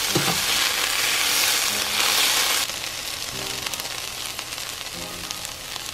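Veggie chili of meatless ground crumbles, carrots and green peppers sizzling as it fries in a pot, a steady hiss that softens after about two and a half seconds.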